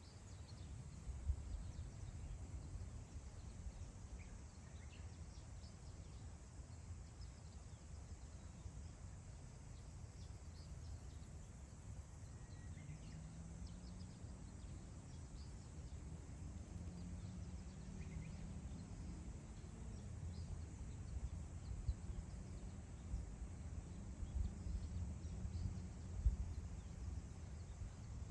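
Wind blowing over open grassland, heard as a low, gusting rumble on the microphone, with faint, scattered short bird chirps above it.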